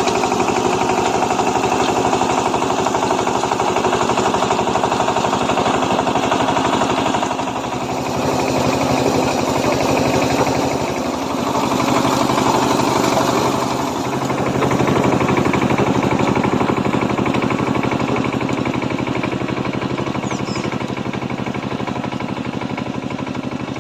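Single-cylinder diesel engine of a Kamco power tiller running with a rapid, steady knocking beat, its loudness dipping briefly a few times.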